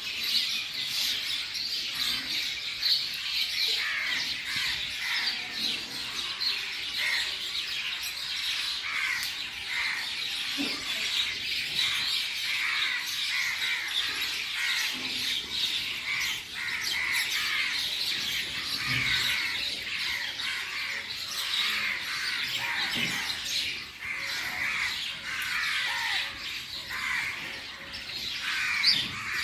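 Many birds calling and chirping at once, a dense, continuous chorus of short overlapping calls.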